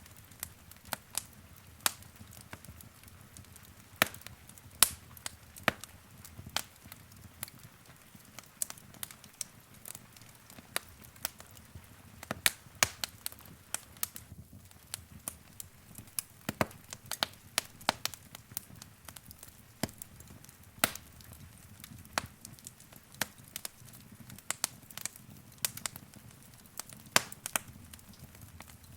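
Wood fire in a fireplace crackling: irregular sharp pops and snaps, a few much louder than the rest, over a soft low rumble of flames.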